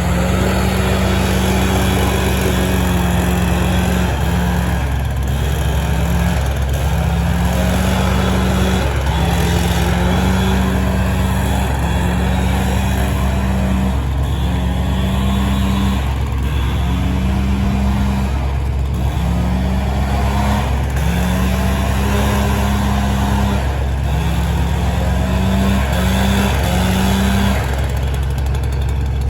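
A large engine runs steadily, its pitch stepping slightly up and down every second or two.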